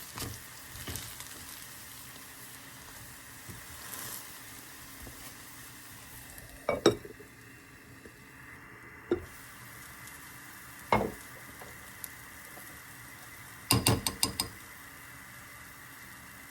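Food sizzling in a pan while a utensil is worked against the cookware: single sharp knocks about seven, nine and eleven seconds in, then a quick run of about six clinks near the end.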